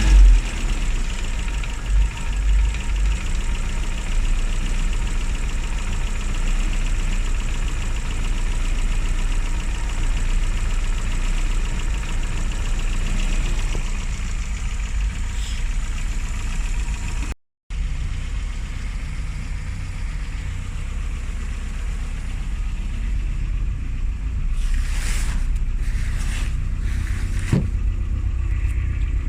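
Classic Mini's A-series engine idling steadily, with a momentary dropout about two-thirds through and a few brief higher-pitched noises near the end.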